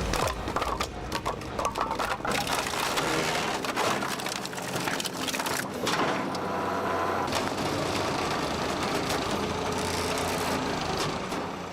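Posch SplitMaster 35 horizontal wood splitter at work: logs cracking and splintering apart with many sharp cracks and knocks, over a steady machine running sound that becomes more prominent in the second half.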